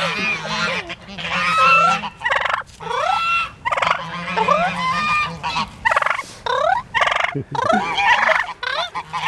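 Turkey gobbling over and over in rapid rattling bursts, with Chinese geese honking among the calls.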